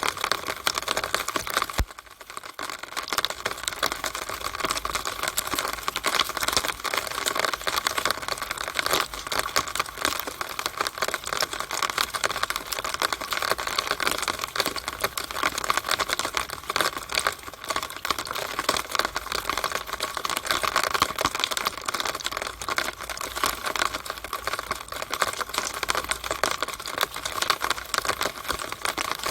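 Rainwater running down a downspout, dripping and splashing in a dense, rapid, irregular patter of clicks. The level dips briefly about two seconds in.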